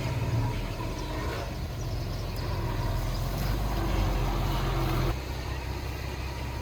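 Heavy machinery diesel engine running, louder and rougher from about one and a half seconds in, then dropping back suddenly to a steadier hum about five seconds in.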